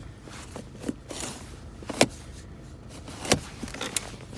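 Handling noise inside a car: a few sharp clicks and knocks, the loudest about two seconds in and another just after three seconds, over a steady low hum.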